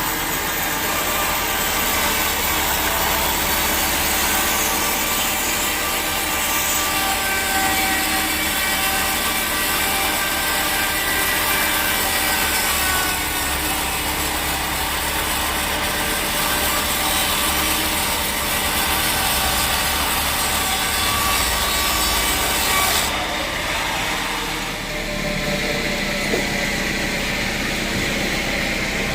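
Sawmill saw cutting through a teak log, a steady loud hissing grind over a running engine. About 23 seconds in the cut ends and the high-pitched part stops, leaving the engine running.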